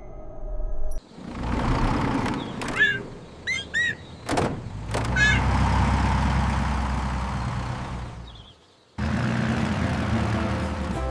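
Layered cartoon action sound effects: a heavy mechanical rumble with sharp hits and a few short chirping squeaks. The rumble cuts out briefly near the end, then starts again.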